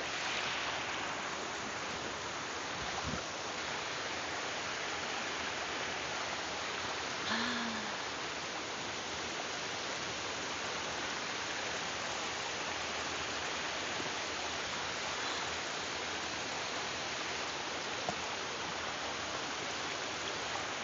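Steady rushing of a valley stream mixed with heavy rain, an even hiss that holds the same level throughout.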